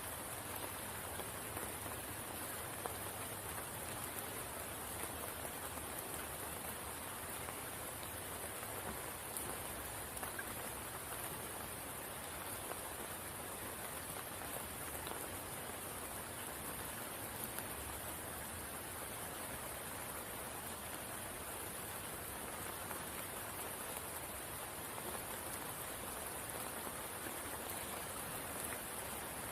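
Steady rain falling on a spring pool: an even hiss with faint, scattered drop ticks.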